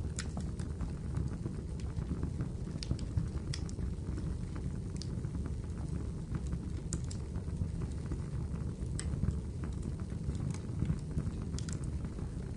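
Wood fire burning in a fireplace: a steady low rumble with irregular sharp crackles and pops scattered through it.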